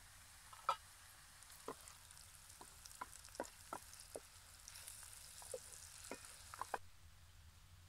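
Onions frying in oil in a metal pot, sizzling faintly, while a wooden spatula stirs them and knocks against the pot in a string of sharp clacks, the loudest about a second in. The sizzle grows louder near the end and cuts off suddenly.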